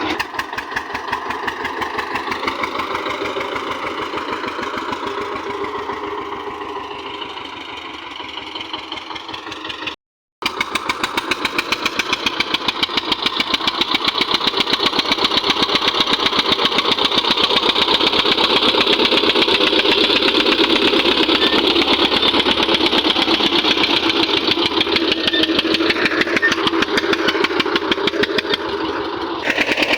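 Eicher tractor's diesel engine running with fast, even firing pulses. It breaks off abruptly about a third of the way in, then runs on louder and steadier.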